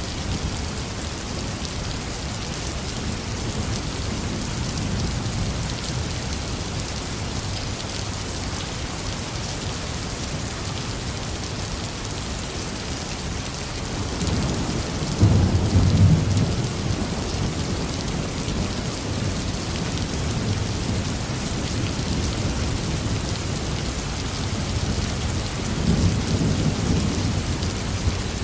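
Heavy rain falling steadily, with rolling thunder rumbling twice, loudest about halfway through and again near the end.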